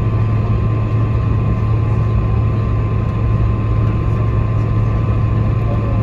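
Steady cabin noise inside a Boeing 747-400 taxiing: a low hum from the engines at taxi power with a thin steady whine above it.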